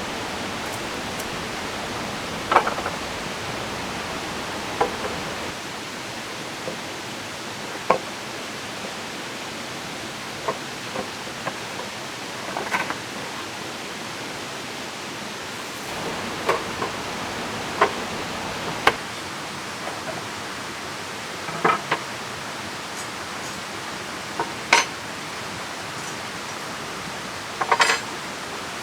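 Steady rush of a river and falling rain, with scattered sharp knocks and clicks every couple of seconds.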